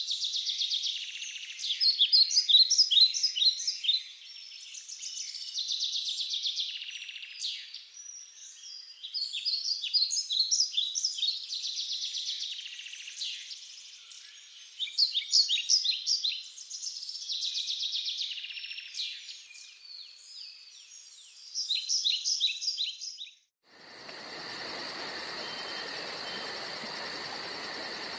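Forest birds singing in repeated bursts of high chirps and rapid trills, every few seconds. About 23 seconds in, this cuts off abruptly to a steady insect chorus: an even hiss with a fast high pulsing.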